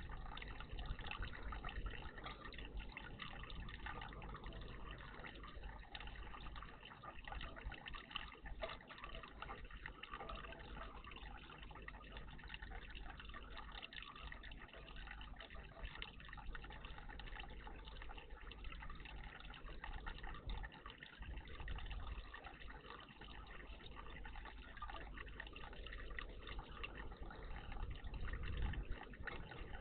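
Water trickling and splashing steadily in a garden bird bath.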